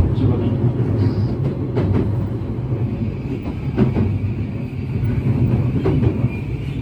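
Electric commuter train running, heard from inside the car: a steady low rumble with intermittent wheel clicks over the rail joints and a faint steady high whine.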